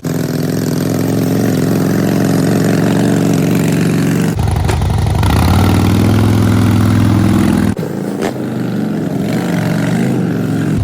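Motorcycle engine running just after starting: a steady idle, then revved and held higher from about four seconds in, dropping back to idle near eight seconds.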